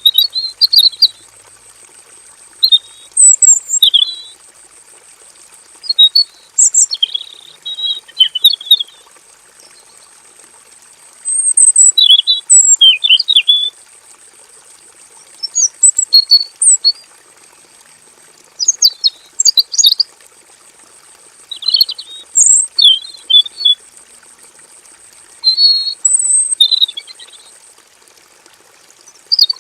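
Male red-billed leiothrix (Pekin robin) singing: rapid, high warbling phrases a second or two long, repeated every few seconds. A faint steady high whine runs underneath.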